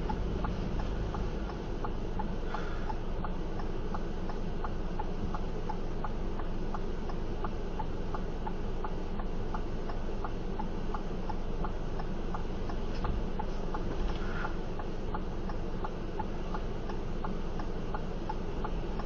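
Car turn-signal or hazard-light flasher ticking at a steady pace, about two ticks a second, over a steady low rumble inside a car's cabin.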